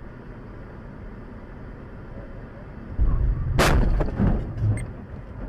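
A car collision heard from inside a moving car: steady road rumble, then a sudden heavy low thump about three seconds in and a sharp crash about half a second later, with a few smaller knocks after it.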